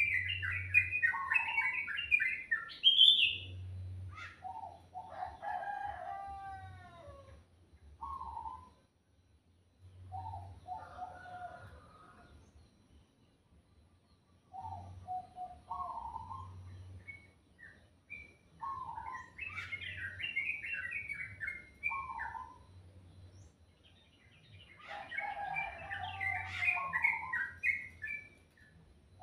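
Songbirds singing: bursts of quick, high chirping song, with a lower, shorter call repeated every few seconds in between and a brief lull around the middle.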